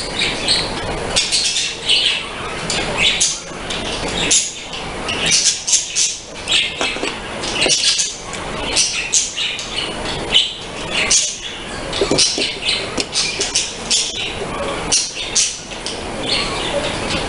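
A bird chirping and squawking over and over in many short, high calls.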